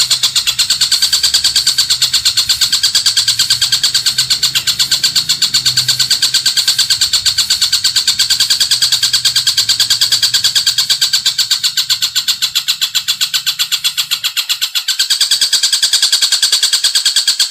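A songbird's rapid, unbroken trill of about eight notes a second, a sustained 'roll' of the kind played as masteran song for training caged birds. A faint low hum lies underneath and stops near the end.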